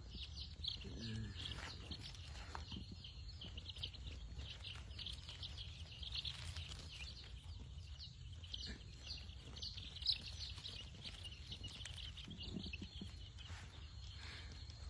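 A brood of young chicks peeping continuously, many short high chirps overlapping, over a low steady hum.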